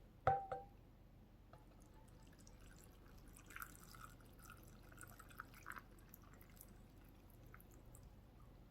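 Cooled marinade being poured over layered raw shrimp in a container, with faint trickling and dripping. A short clink comes just after the start.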